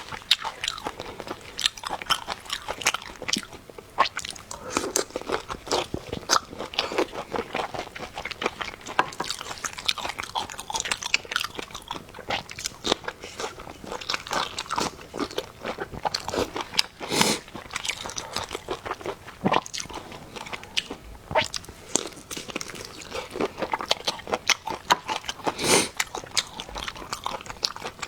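Close-up chewing and crunching of food, a continuous run of quick crunchy bites with a few louder crunches in the second half.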